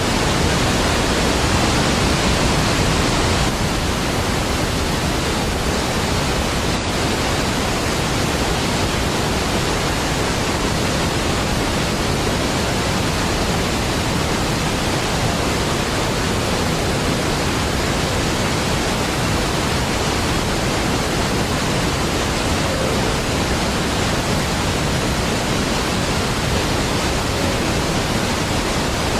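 Niagara Falls: the deep, steady rush of a large waterfall, an even wash of falling water with no break, easing slightly a few seconds in.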